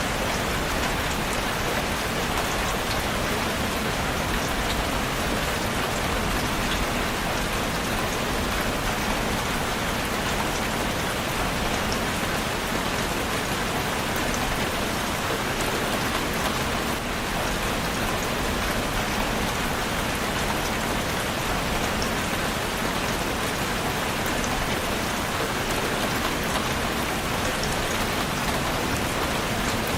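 Steady rainfall, a dense even patter of raindrops on a surface.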